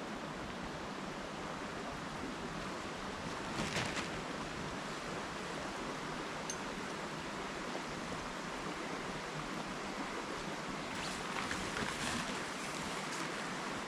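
Steady rushing of a flowing river, with short louder scuffs about four seconds in and again near the end.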